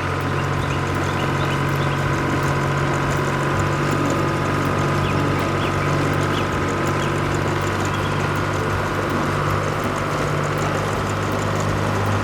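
A farm vehicle's engine running steadily with a low hum, as a cartoon sound effect.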